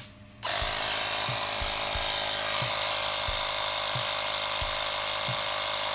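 AUTO-VOX 12V portable tyre inflator switching on about half a second in and then running steadily, its small motor and piston pump buzzing loudly as it pumps air into a car tyre.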